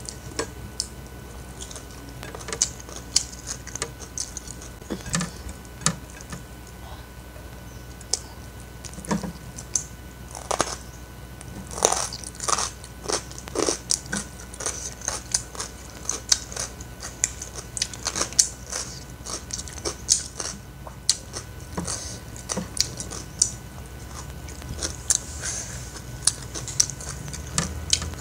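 Close-miked eating sounds: a person chewing and biting mouthfuls of food, with sharp wet mouth clicks coming in quick irregular runs, busiest from about ten to twenty seconds in.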